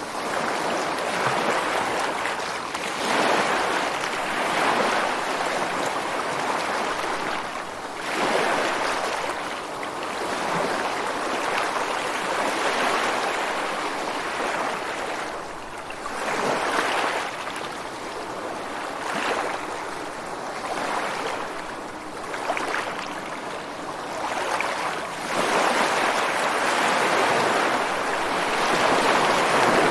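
Ocean waves breaking and washing ashore on a beach and against rocks: a steady rush of surf that swells and eases every few seconds.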